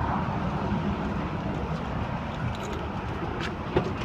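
Steady low rumble of a running vehicle, with two short clicks near the end.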